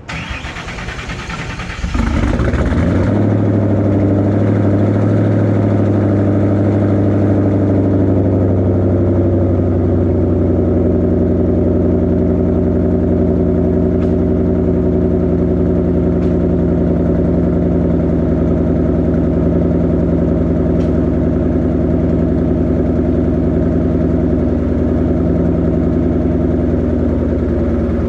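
Cold start of a twin-turbo Ford Mustang Boss 302 V8, exhaust through straight-through mufflers. The starter cranks for about two seconds, the engine catches with a jump in loudness, then settles into a steady idle.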